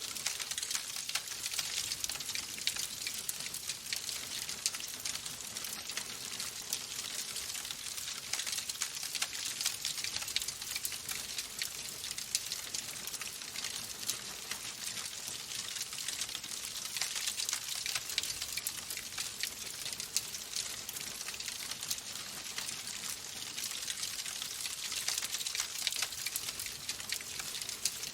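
Wood fire crackling in a fireplace: a steady hiss of burning with many small, irregular pops and snaps throughout.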